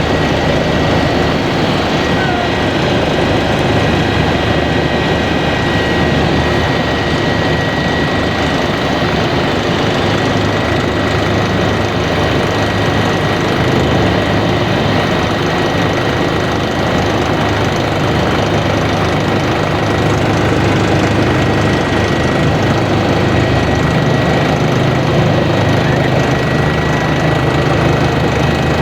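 Kawasaki BK 117 B-2 twin-turbine helicopter heard from inside the cabin, its rotor and engines running steadily, with a thin high whine held throughout.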